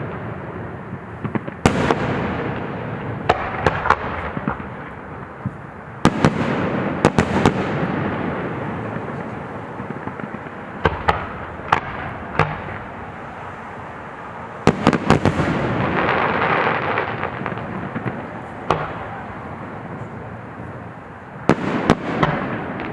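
Aerial fireworks shells bursting: a sharp bang every few seconds, several coming in quick clusters, each followed by a long rumbling echo that fades over a few seconds.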